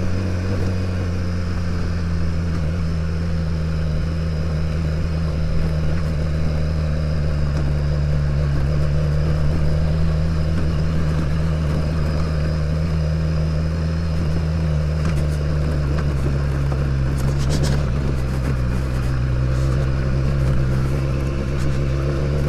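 BMW S1000XR's inline-four engine running at a steady pitch while the motorcycle rides along, with the engine note easing slightly lower about two-thirds of the way through.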